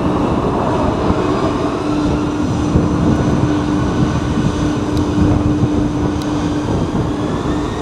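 Jet airliner engines whining under heavy wind noise buffeting the microphone in typhoon-force gusts. A high engine whine rises steadily near the end.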